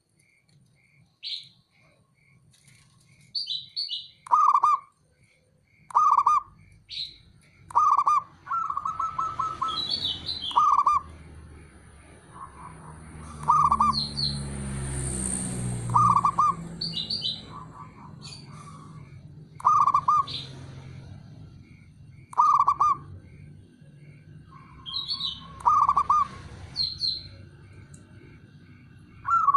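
Zebra doves (perkutut) calling: short cooing notes repeated every two or three seconds, some running into quick stuttering trills, with higher chirps from another bird in between. A low rumble swells and fades about halfway through.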